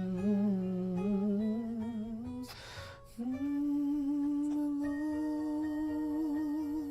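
Worship song: a voice humming or singing a wordless melody over soft instrumental backing. About two and a half seconds in there is an audible breath, then one long held note with vibrato.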